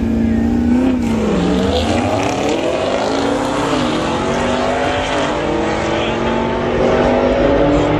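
Vehicle engine revving under load, its pitch dropping and climbing again several times.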